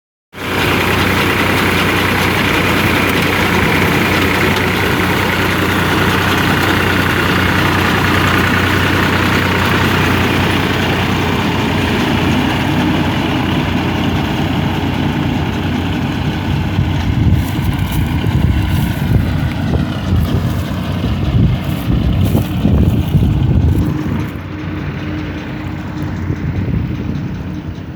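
Tractor engine running steadily while driving a mounted reaper through a soybean crop, with uneven low rumbling in the last third.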